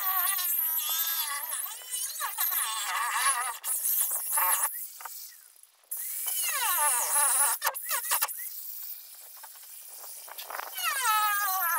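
High-pitched power tool whining, its pitch wavering up and down as the load changes, with two short lulls partway through.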